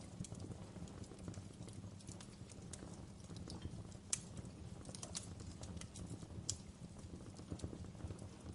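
Wood fire crackling in a fireplace: irregular sharp pops and snaps over a low steady rumble, with one louder pop about four seconds in.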